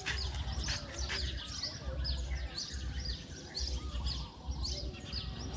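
Small birds chirping: short, quickly falling chirps repeated a few times a second, over a low rumble that comes and goes.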